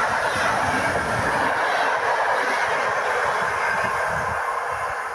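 PKP Intercity passenger carriages rolling past on the rails with a steady wheel-and-rail rumble. The sound eases off slightly near the end as the last carriage draws away.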